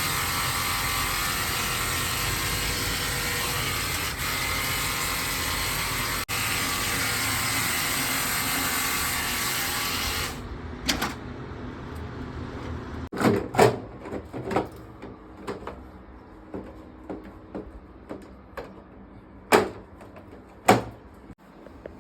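A loud, steady rushing hiss that cuts off suddenly about ten seconds in, followed by scattered knocks and clicks of objects being handled.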